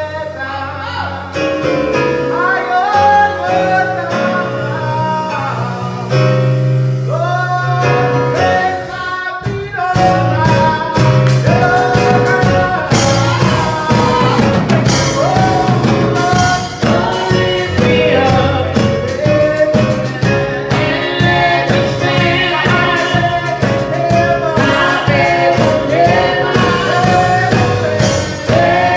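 Gospel song with choir singing over sustained chords; about nine seconds in, drums come in with a steady beat.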